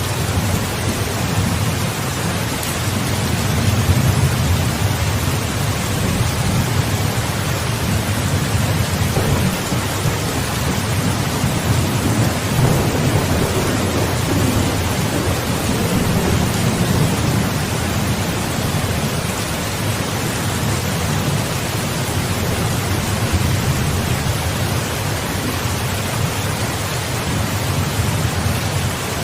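Steady heavy rain hissing, with low rolling thunder rumbling underneath that swells a few times and fades back.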